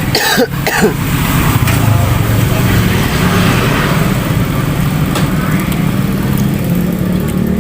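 A motorcycle engine running steadily at a constant speed, with a short higher-pitched sound just after the start.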